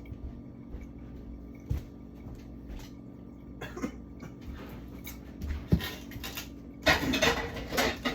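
A few scattered knocks, then a louder burst of scraping and rattling near the end: a food container of frozen, moldy leftovers being handled and emptied.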